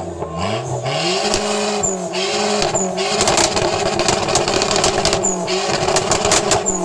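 Dodge Neon's four-cylinder engine revved hard: it climbs quickly at the start and is held at high revs with brief dips, with sharp crackling pops from the exhaust, then drops off at the end.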